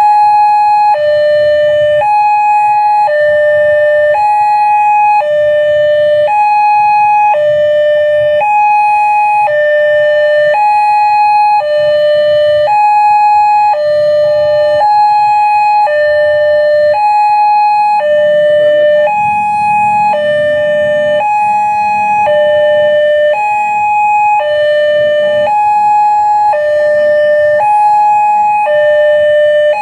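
Railway level-crossing warning alarm: an electronic two-tone signal alternating between a higher and a lower tone, each held about a second, sounding continuously while the crossing is closed for a train. A low rumble runs beneath it.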